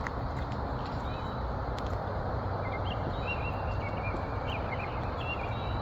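Birds calling faintly, with short high chirps that cluster in the second half, over a steady low rumble.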